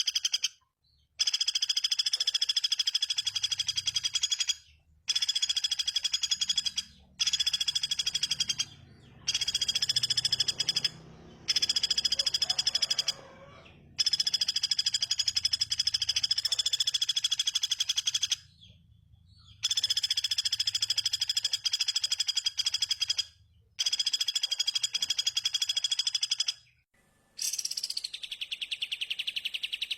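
A small songbird gives rapid buzzy trills in phrases of one to four seconds, separated by short pauses. Near the end it switches to a different call of quick falling whistled notes.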